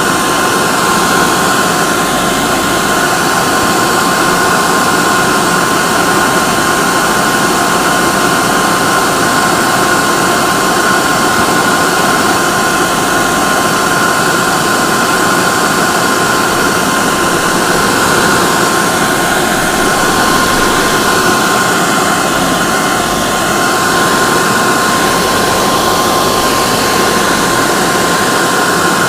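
Hair dryer running steadily on one setting: a constant rush of air with a steady motor whine.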